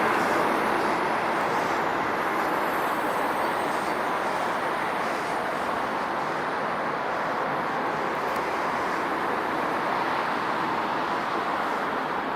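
Electric passenger train running through the station: a steady rushing of wheels on rails that slowly eases off, with a faint high whine gliding in pitch in the first few seconds.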